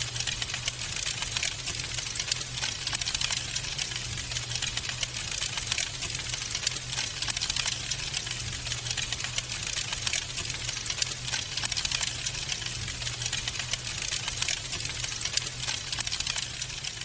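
Wood fire crackling in a fireplace: a dense, continuous run of small sharp pops and snaps over a low steady hum.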